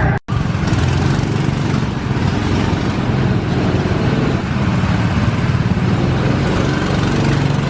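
Small go-kart engines running steadily, a lawnmower-like hum.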